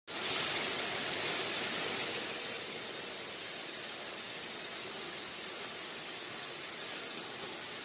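Waterfall water rushing in a steady hiss, a little louder in the first two seconds and then even.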